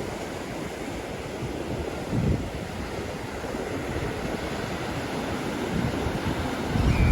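Caspian Sea waves washing on the shore, with wind buffeting the microphone in gusts about two seconds in and again near the end.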